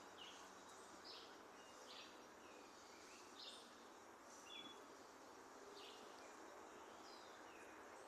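Faint birdsong: short high chirps repeated roughly once a second, some followed by a brief lower note, over a steady background hiss.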